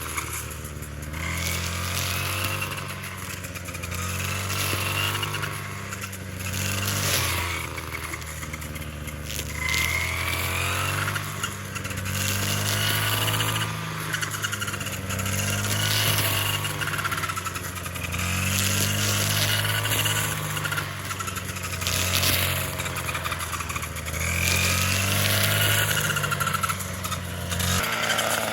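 A small engine running, its speed rising and falling every couple of seconds.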